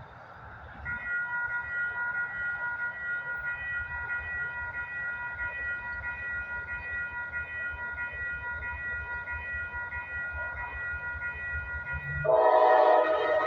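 A grade-crossing warning bell starts ringing about a second in, with a steady pulsing tone, over the low rumble of a train. Near the end a locomotive's multi-chime air horn sounds loudly.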